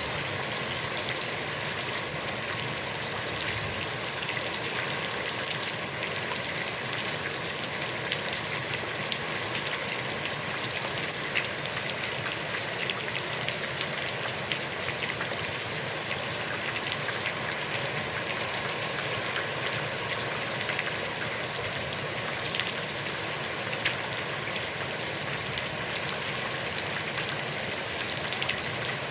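Heavy rain falling steadily onto a pond's water, a dense even patter of drops with scattered sharper drop hits.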